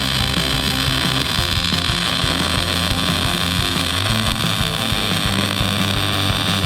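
A steady, loud hiss from a metalworking power tool working steel, over background music.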